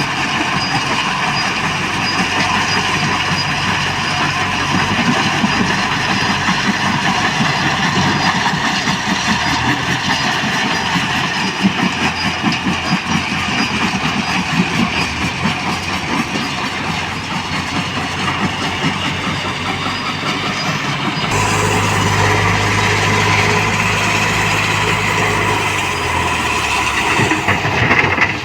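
Heavy diesel machinery engine running steadily with a clattering, rattling noise; about two-thirds through the sound shifts and a deeper hum comes in for several seconds.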